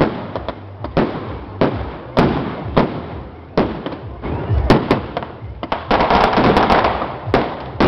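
Firecrackers going off: a string of sharp, separate bangs every half second or so, turning into a dense rapid crackle from about six seconds in.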